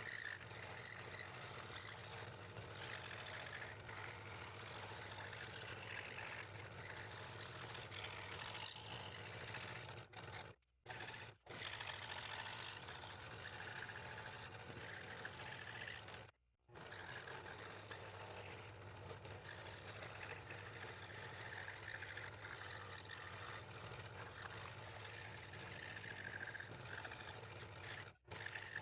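A woodworking power tool running steadily with a low hum and scraping noise, broken by brief dead-silent gaps where the recording is cut: about ten seconds in, twice close together, around halfway, and near the end.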